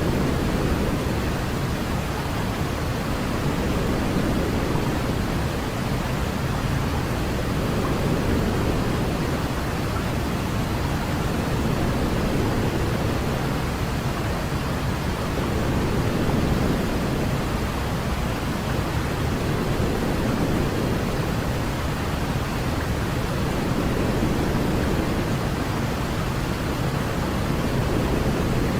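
Steady sleep noise for babies: an even hiss weighted toward a deep low rumble. It gently swells and eases every few seconds.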